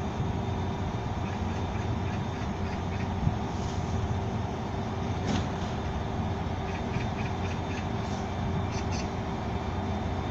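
Korail Mugunghwa passenger train rolling at low speed alongside the platform: a steady rumble of wheels on the rails, with short high squeaks from the wheels now and then.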